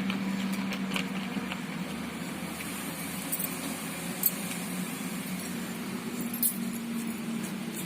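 Hands kneading a wet masala marinade, with a few sharp clinks over a steady low hum.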